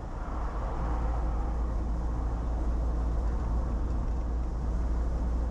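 Car driving along a paved road: steady tyre and road noise over a low engine rumble.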